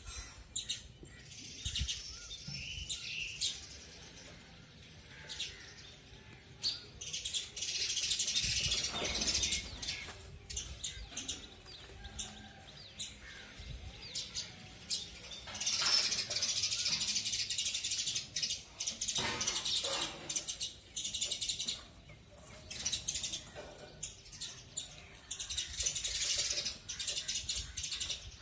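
House sparrows chirping, many birds at once, in busy spells of overlapping high chirps with quieter gaps between.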